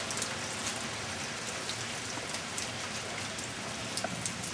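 Steady rain falling, with single drops ticking close by now and then.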